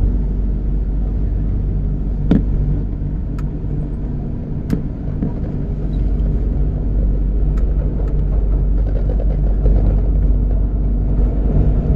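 MTR Kwun Tong Line Q-Train running between stations, heard inside the carriage: a steady rumble of wheels on rail with a steady motor hum, and a few sharp clicks, the sharpest about two seconds in.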